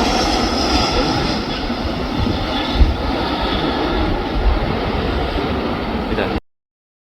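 Jet engine noise from a Boeing 737-900's CFM56 turbofans after landing, a steady roar with strong wind buffeting the microphone underneath. The sound cuts off abruptly about six seconds in.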